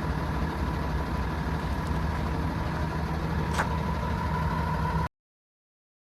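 Hino 338's 7.6-litre turbo diesel engine idling steadily, with a steady high whine over it and a single click about three and a half seconds in. The sound cuts off suddenly about five seconds in.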